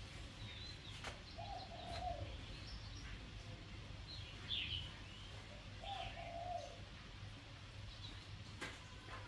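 Birds calling outdoors: a low cooing phrase comes twice, about four and a half seconds apart, over scattered short, higher chirps. Two faint clicks sound, one about a second in and one near the end.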